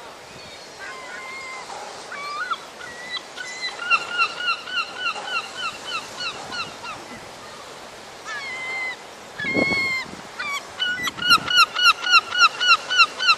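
A seagull calling in runs of short, hooked, repeated calls, about three a second, from about four seconds in and again, louder, from about eleven seconds in, with a few longer single calls between. These are the agitated calls of a gull being chased, which a speaker reads as annoyed.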